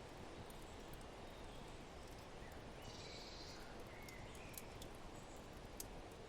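Mixed ambience of a steady low rush of wind with scattered sharp crackles from a wood fire. A few faint short bird chirps come near the middle.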